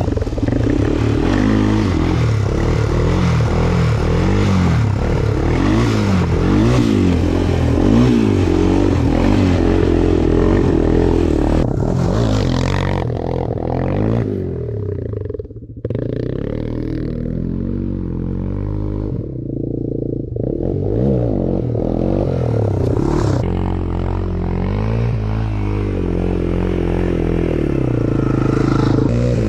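Small off-road engine revving up and down again and again under riding load, with a short dip in the middle.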